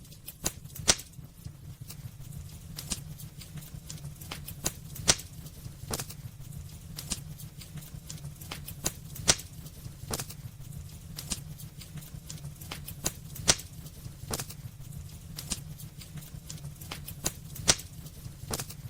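Wood fire burning in a fireplace, crackling with irregular sharp pops, a few of them louder, over a steady low rumble.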